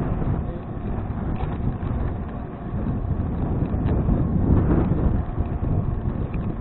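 Wind buffeting a bicycle-mounted action camera's microphone while riding, a steady low rumble mixed with tyre and road noise and a few faint ticks.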